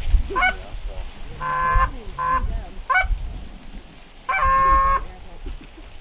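Geese honking: a few short rising honks and three longer, steadily held honks, over low wind rumble on the microphone.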